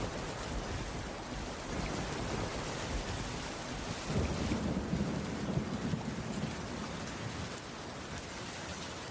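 Steady rain falling on a wooden roof, an even hiss. About four seconds in, a low rumble swells for two seconds or so, then fades back into the rain.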